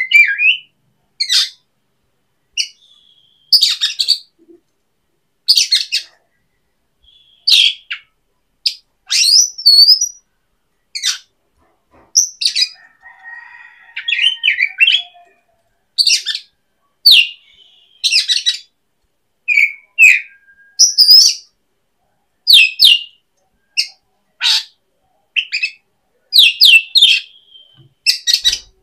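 A bird calling close by, with loud short chirps and brief whistles, about one every second or two and some quick rising and falling notes.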